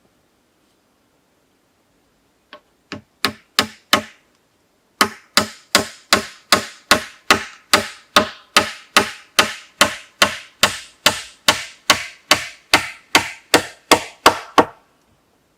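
A tool striking wood in quick, regular blows. A few strikes build up, then after a brief pause come about thirty even blows at roughly three a second, each with a short ringing tail, stopping shortly before the end.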